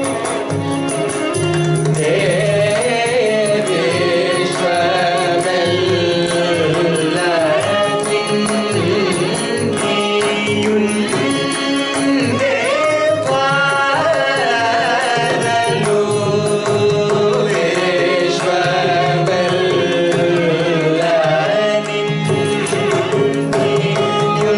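Carnatic music: a melody line with gliding, ornamented pitch over a steady drone, accompanied by continuous mridangam strokes.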